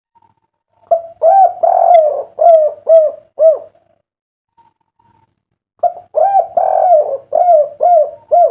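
Spotted dove (derkuku) cooing in two phrases, one starting about a second in and the other just before the end. Each phrase is a run of rounded coos ending in three short 'kuk' notes.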